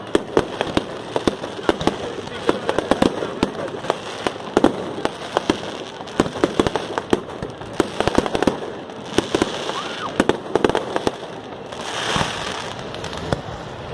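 Fireworks display going off: a rapid, irregular run of sharp bangs and crackling reports, with a broader swell of noise near the end.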